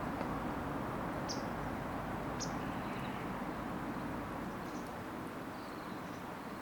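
A small bird's short high chirps, three or four times, over a steady low rushing background.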